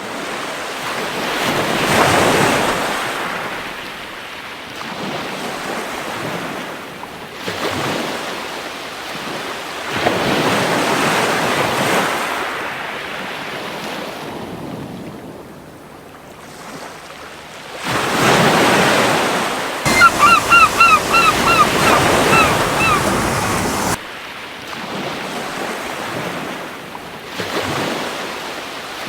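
Surf washing onto a beach, rising and falling in slow surges several seconds apart. About twenty seconds in, a gull gives a quick run of about eight short calls.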